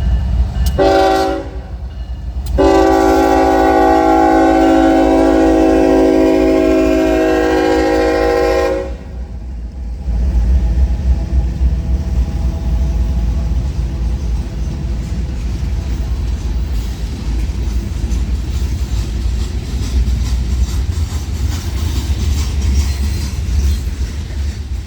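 Locomotive air horn giving a short blast and then a long one of about six seconds, the closing notes of a grade-crossing signal, followed by the steady low rumble of the train running past.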